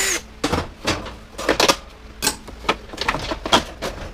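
A power drill driving screws cuts off just after the start, followed by a string of irregular sharp clicks and knocks from parts being handled while dismantling a washer/dryer combo.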